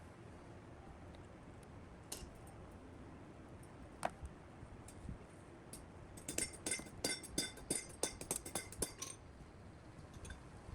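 Small metal parts or tools clinking together: a couple of single taps, then about three seconds of quick, ringing clinks starting about six seconds in.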